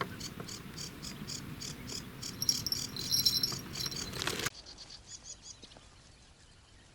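Field crickets chirping in a steady rhythm, about three pulses a second. For the first four and a half seconds a louder rushing noise lies over them and cuts off suddenly, leaving only the crickets.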